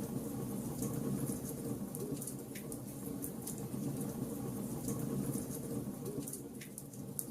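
Wood logs burning in a fireplace: a steady low rumble of the fire with constant small crackles and two louder pops.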